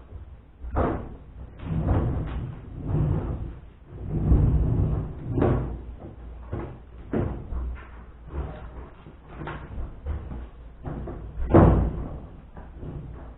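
Irregular clunks and knocks from a washing machine, roughly one a second over a low rumble, with one louder bang near the end.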